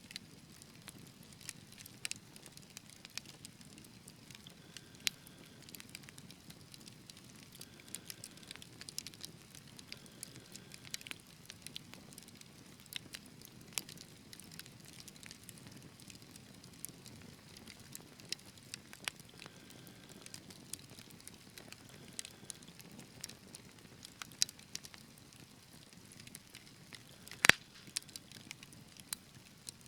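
Wood fire crackling in a fireplace: irregular sharp pops and snaps over a low, steady rumble of the flames, with one louder pop near the end.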